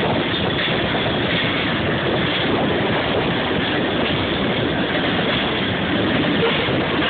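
Iowa Interstate Railroad freight train rolling past a crossing, a steady dense noise of cars on the rails.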